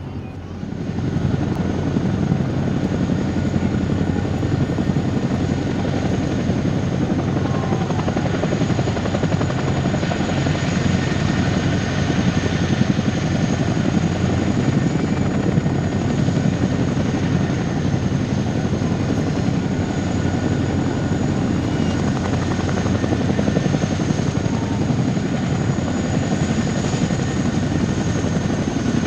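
Helicopter turbine engines and rotor running steadily and loudly, with a constant high turbine whine over the low roar. The sound comes in suddenly about half a second in.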